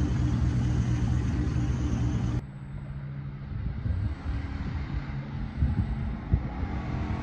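Pickup truck engine idling with a steady low exhaust rumble. About two and a half seconds in, the sound cuts abruptly to a quieter, uneven engine rumble with a few short thumps.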